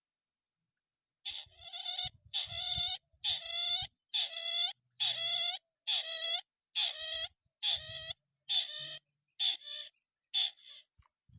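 Crake ('tikusan') calls: one harsh, pitched note repeated about once a second, about eleven times, starting a little over a second in and turning ragged near the end. Some low thumps sound underneath.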